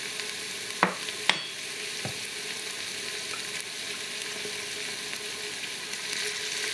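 Shallots, garlic, scallions and chili sizzling steadily in caramelized sugar in a stainless steel Instant Pot inner pot on sauté, with three sharp clicks in the first two seconds. Near the end a piece of round scad is lowered into the pan and the sizzle grows a little louder.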